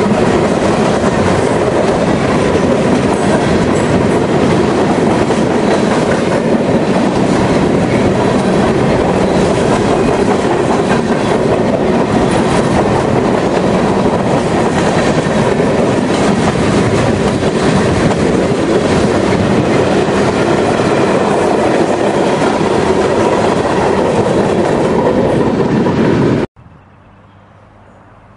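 Freight cars (tank cars and covered hoppers) rolling past close by: loud, steady wheel-on-rail noise. It cuts off suddenly near the end, leaving only faint outdoor background.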